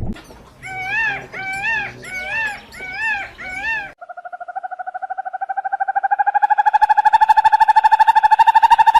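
Animal calls: five short calls in a row, each rising and falling in pitch. Then a long, rapidly pulsing trill that slowly rises and grows louder.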